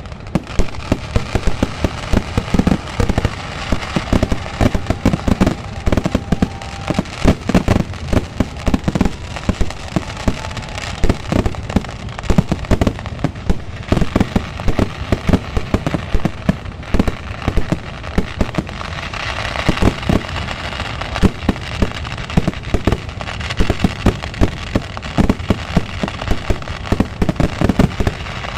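Fireworks display: a dense, unbroken barrage of firework bangs and cracker reports, fired irregularly one on top of another.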